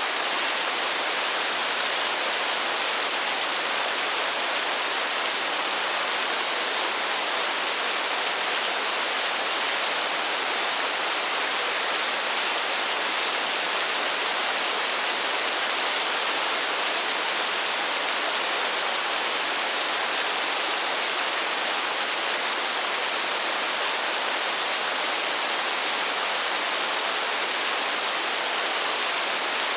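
Steady rain, an even hiss that does not change, with no single drops or other sounds standing out.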